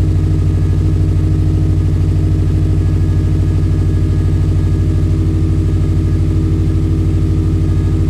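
2008 Subaru WRX's turbocharged 2.5-litre EJ255 flat-four idling steadily after a cold start, through a muffler-delete exhaust.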